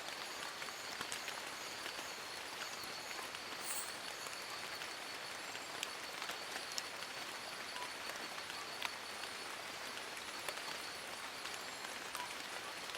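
Steady rain falling on forest leaves: an even hiss with many small raindrop ticks scattered through it.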